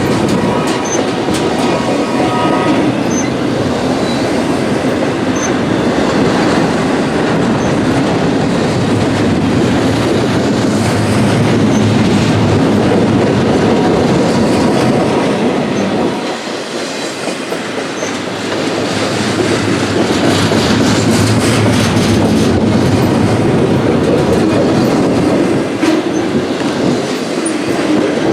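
Freight train cars rolling past with a steady rumble and the clickety-clack of wheels over rail joints. A faint wheel squeal is heard in the first few seconds, and the sound eases briefly about two-thirds of the way through.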